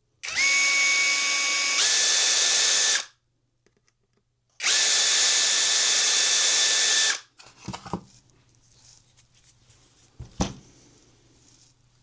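A small high-speed power tool runs twice, each time for two to three seconds, with a high steady whine whose pitch steps up partway through the first run. A few light clicks and taps of handling follow.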